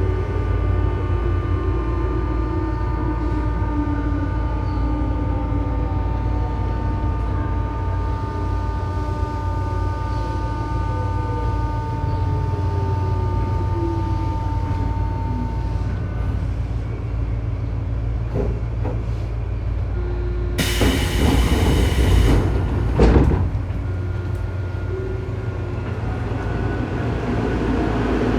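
Tobu 9000 series electric train heard from above the armature chopper of motor car MoHa 9204, a car whose chopper makes an abnormal whine. Steady high whine tones run with motor tones that fall slowly in pitch as the train slows, then a loud hiss of about two seconds and a knock.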